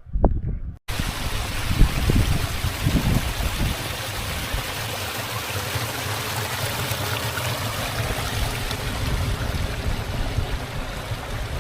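Fast-flowing mountain water rushing steadily, starting abruptly about a second in.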